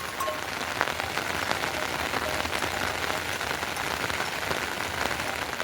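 Heavy rain falling steadily, a dense patter of many individual drops striking a surface.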